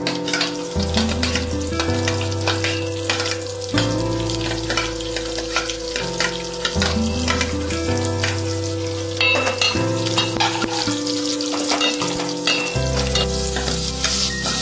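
Food frying in oil in a steel pan, a steady crackling sizzle with the clicks and scrapes of a steel spoon stirring it, over background music.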